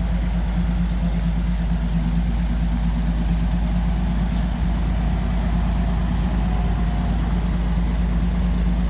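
Truck engine running steadily with a constant low hum and no revving.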